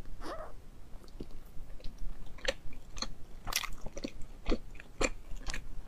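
Close-miked mouth sounds of biting into and chewing a soft chocolate-filled bun: a bite just after the start, then irregular wet smacks and clicks as it is chewed.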